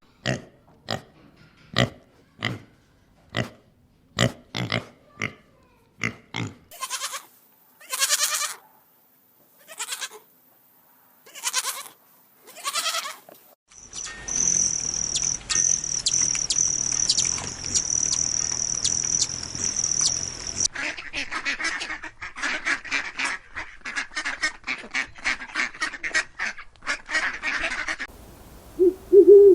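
A run of different animal recordings, one after another. First come evenly repeated short knocks at about two a second, then a few separate calls, then a steady high-pitched buzzing tone with clicks. After that comes a fast chattering, and an owl starts hooting just before the end.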